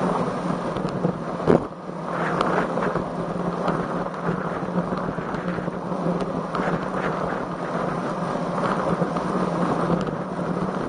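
Wind buffeting the microphone of a camera riding on a road bicycle: a steady rushing noise with a low hum under it, and a single thump about a second and a half in.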